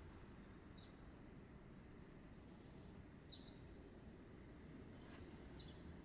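Near silence with a faint low background rumble, broken by three short, high chirps of a small bird about two and a half seconds apart.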